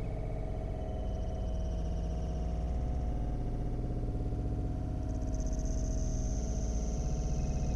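A steady low hum, with a high thin tone coming in about five seconds in.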